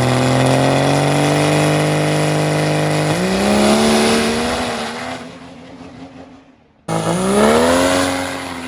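Diesel race truck accelerating hard, its engine pitch climbing steadily and stepping up about three seconds in, then fading as it pulls away. After a sudden cut, another engine climbs and then drops in pitch as a truck passes.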